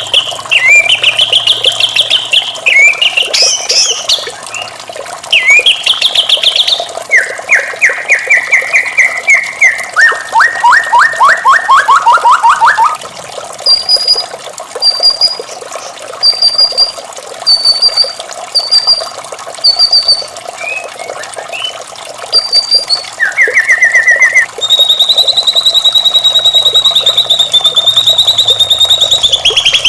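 White-rumped shama singing a varied song. First come rapid rattling trills, some falling in pitch; then a run of short high whistled notes; near the end a long buzzy trill is held. Steady background noise runs throughout, like running water.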